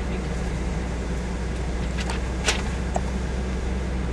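Car driving along with a steady low engine and road-noise hum. A few short clicks or taps come about two to three seconds in.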